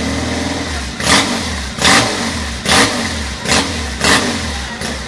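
Old Triumph motorcycle engine running, with the throttle blipped five times in quick, sharp revs less than a second apart over a steady idle.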